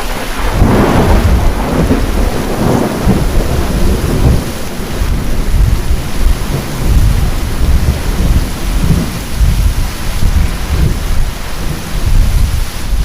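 Heavy rain with thunder: a clap about half a second in that rolls on for a few seconds, and low rumbling that continues under the steady rain.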